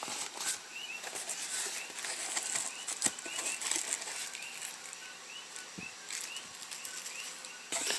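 A small bird chirping over and over in short, quick calls, with scattered clicks and rustling from things being handled close by.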